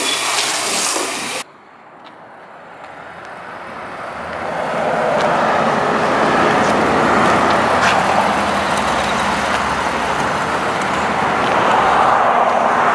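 A loud rushing noise cuts off abruptly about a second and a half in. Vehicle noise then swells over about four seconds and holds steady.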